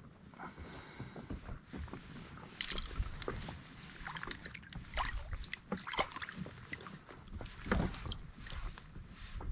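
Water slapping against the hull of a small fishing boat, with irregular short knocks and clicks throughout.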